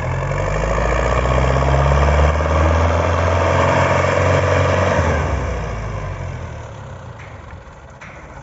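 Belarus 510 tractor's diesel engine running hard under load, loud for about five seconds, then falling away over the next two seconds.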